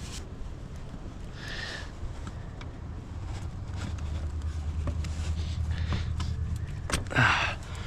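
Small clicks and scrapes of a screwdriver working at the plastic electrical connector on a camshaft position sensor, unclipping it. Under them runs a low steady hum that swells in the middle, and near the end there is a short vocal sound.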